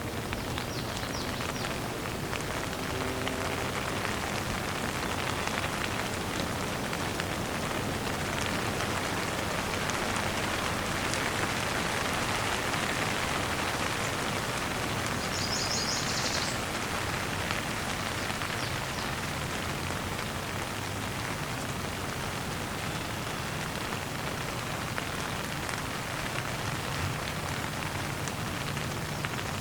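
Steady rain falling, an even hiss of drops pattering on surfaces, a little heavier around the middle.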